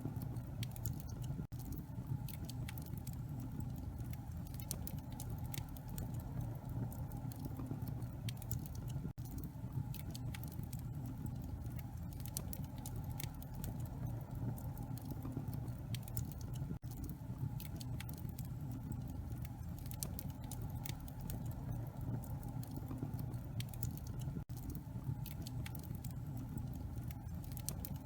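Wood fire crackling in a fireplace: dense, irregular pops and snaps over a steady low rumble. There is a brief dropout about every seven and a half seconds.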